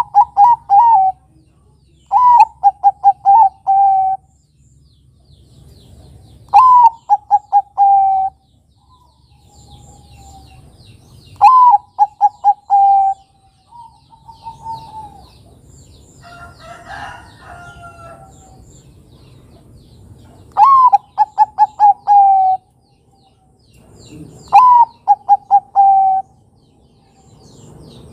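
Zebra dove (perkutut, Bangkok type) cooing: about six phrases, each a rising opening note followed by a quick run of short staccato coos, repeated every few seconds. Faint chirps of other birds sound between the phrases.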